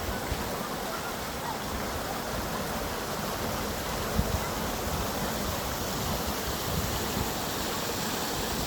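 Steady rushing of flowing water, with a brief knock about four seconds in.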